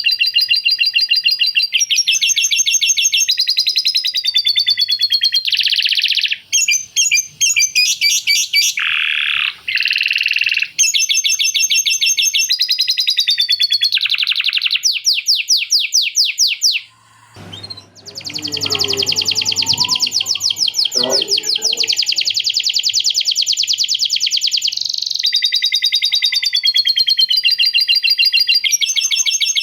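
Male canary singing a long, continuous song of rapid trills, switching to a new trill every second or two. A little past halfway the song breaks off briefly and a lower, rougher sound comes in for a few seconds before the high trills return.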